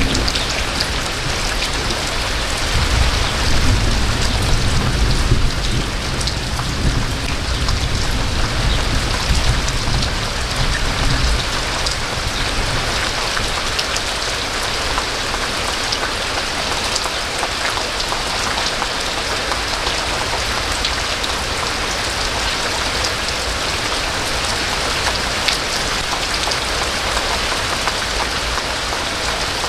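Steady rainfall with a dense hiss and fine pattering of drops. A low rumble of thunder rolls through the first ten seconds or so, then dies away.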